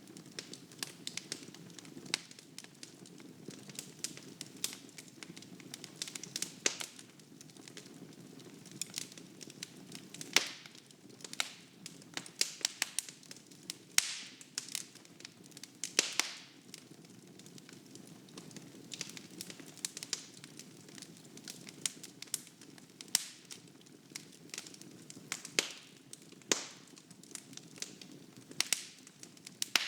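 Wood fire burning in a fireplace: irregular crackles and sharp pops of burning logs over a soft steady rush of flame.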